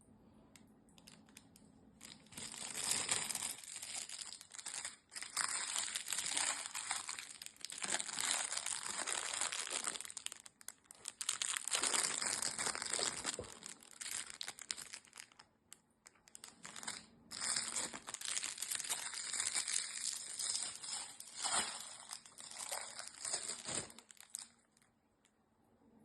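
Crinkling rustle of a crinkly cat toy being pounced on and batted about by cats, coming in long spells with short pauses and stopping shortly before the end.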